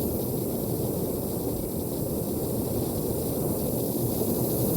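Steady rushing of a waterfall and creek water, a constant deep roar with a hiss on top and no breaks.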